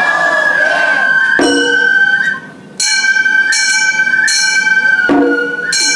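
Gion-bayashi festival music: a transverse bamboo flute holds a high, wavering melody line while small bronze kane gongs clang repeatedly and ring on, striking about twice a second in the second half.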